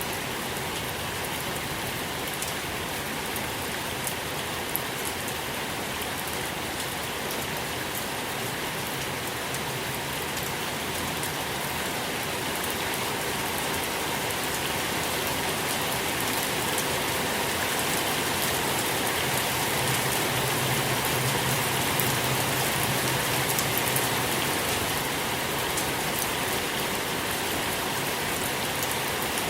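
Steady rain falling on a surface, a dense even patter of many drops, swelling slightly louder about halfway through.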